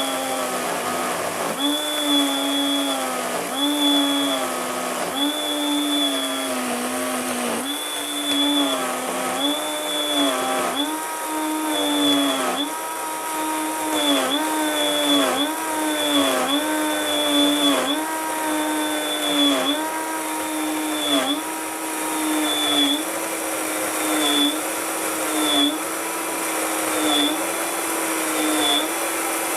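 Electric mixer grinder running at speed, grinding peeled sugarcane pieces with water. Its motor pitch sags and recovers about once a second, with a high whine that comes and goes in the same rhythm.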